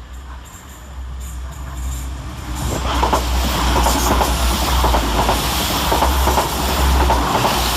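Two coupled Class 172 Turbostar diesel multiple units running through the station at speed without stopping: a low diesel rumble growing louder from about a second in, then a loud passing roar with a rapid clatter of wheels over the rail joints.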